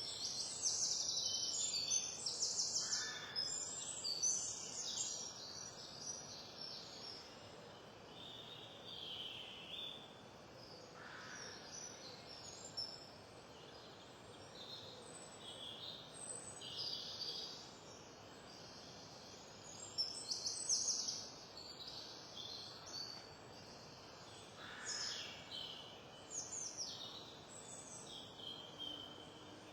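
A songbird singing in short, high, warbling phrases every few seconds, the loudest in the first few seconds, over a steady background hiss.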